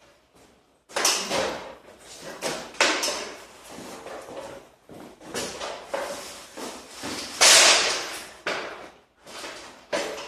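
A run of knocks, scrapes and clatters, several in quick succession, like something being handled or moved about. The loudest is a long scrape in the second half.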